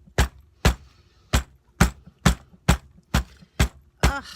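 Hammer pounding a flower onto paper in steady, even blows, about two a second. This is hammered-flower printing, beating the petal's colour into the page.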